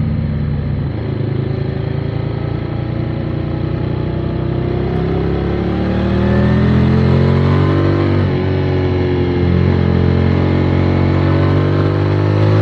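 Motorcycle engine under way: its note drops briefly at first, then climbs as it accelerates, changes gear about eight seconds in and climbs again, louder in the second half.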